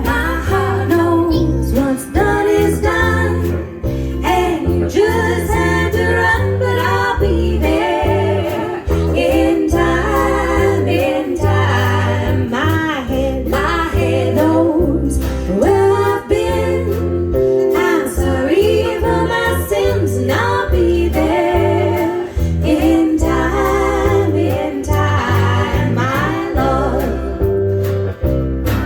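An amateur band playing a song live: a voice singing the melody over strummed guitar, with steady low bass notes underneath.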